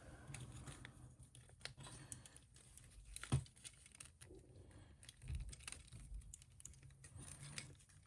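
Faint, scattered clicks and taps of hard plastic as an action figure and its accessories are handled and posed, with one sharper click about three and a half seconds in.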